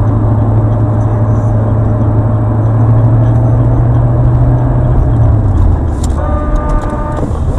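Car on the road: steady engine and road noise with a low drone that fades about five seconds in. Near the end a steady pitched tone sounds for about a second, with a few sharp clicks.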